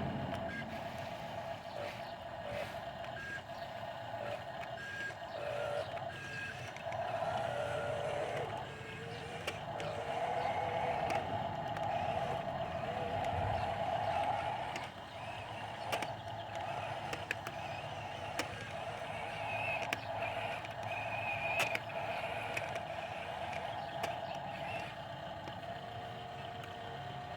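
Heavy diesel vehicle running with a high, steady tone like a reversing alarm over the engine. The tone comes in short pieces at first and then holds for several seconds.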